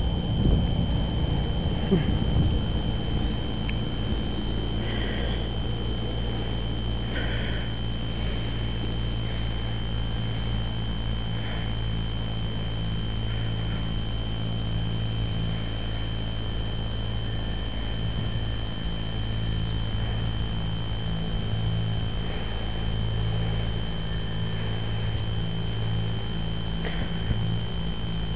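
Crickets chirping steadily on a summer evening: a continuous high trill with a separate pulsed chirp about once a second. A low steady hum runs underneath.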